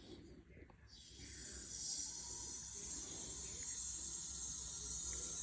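A steady high-pitched hiss that starts about a second in and holds evenly.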